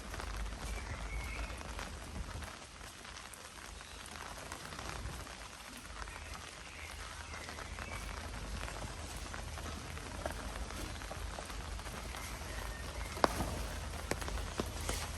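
Steady rain falling, with many small drops ticking on surfaces, and a single sharp tap near the end.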